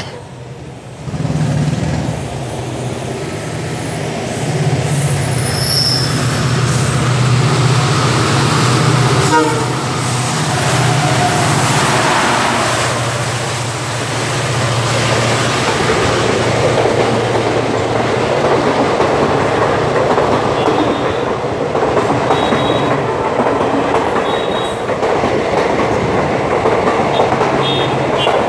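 Express train running through the station at speed behind a WDP4 diesel locomotive: the locomotive's 16-cylinder two-stroke EMD engine drones for the first half as it approaches and passes, then the coaches rush by with rail noise and clickety-clack of the wheels.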